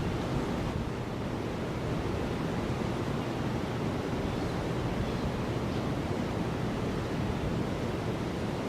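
Steady outdoor rushing noise of wind and flowing river water, even throughout and heaviest in the low end.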